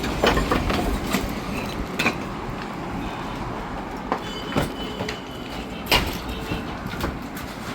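Flat stone slabs knocking and clattering against each other as they are handled and unloaded, a run of irregular sharp knocks with the loudest about six seconds in.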